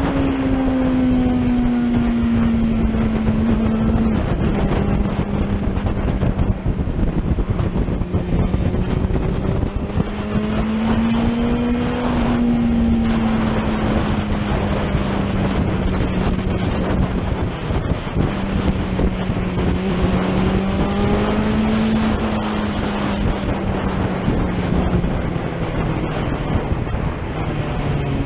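Suzuki GSX-R750 SRAD inline-four motorcycle engine running at high revs at road speed under heavy wind noise on the microphone. The revs ease down over the first few seconds, hold steady with two gentle swells, and drop near the end.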